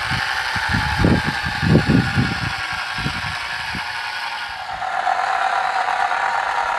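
Small motors of a homemade remote-control model combine harvester running with a steady mechanical whine, with several low thuds in the first few seconds. The tone shifts and settles about four and a half seconds in.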